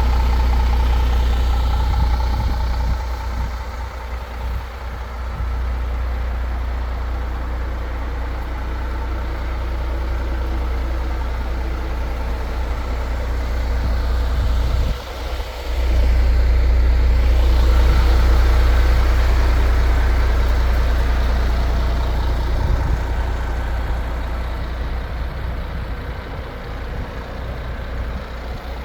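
MAN TGX 18.510 truck's diesel engine running at idle: a steady low hum that dips briefly about fifteen seconds in, then comes back louder.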